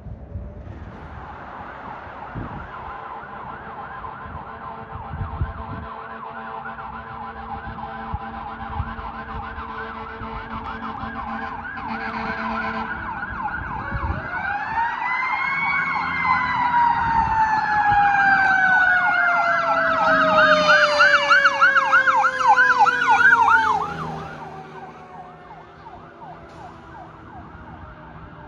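Fire apparatus siren responding: an electronic yelp warbles rapidly and grows louder as it approaches. About halfway a second siren winds up in pitch and then slowly falls while the yelp continues, and the sound drops off sharply near the end as the vehicle passes.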